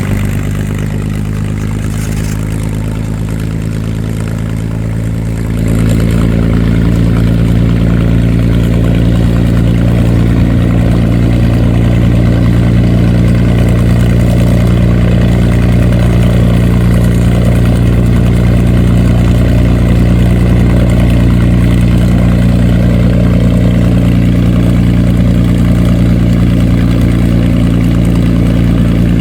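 F4U Corsair's Pratt & Whitney R-2800 radial engine running steadily at low power. It grows louder about six seconds in, then holds steady.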